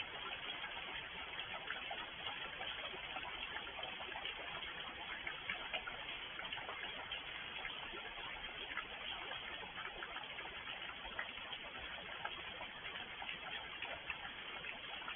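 Steady rain, with many separate drops ticking irregularly.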